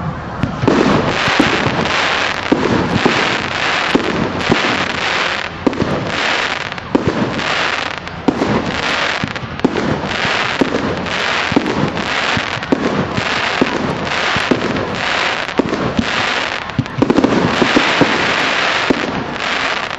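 Fireworks going off in a rapid, steady string, about one a second, each a sharp bang trailed by a crackling hiss. The volley grows louder a few seconds before the end, then stops abruptly.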